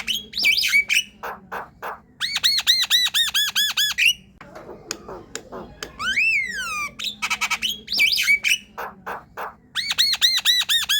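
Javan myna singing: harsh clicks and chatter, then a fast run of about ten arched whistled notes. Near the end a long rising-then-falling whistle leads back into the same phrase, which repeats about every eight seconds.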